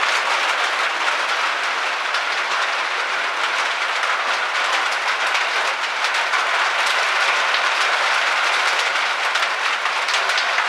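Steady heavy rain falling, an even hiss dense with fine pattering drops.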